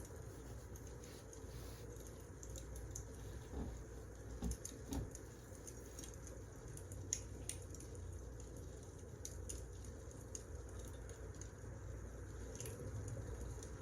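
Wood fire burning: a steady low rumble with scattered sharp crackles and pops, and a couple of soft thumps about four to five seconds in.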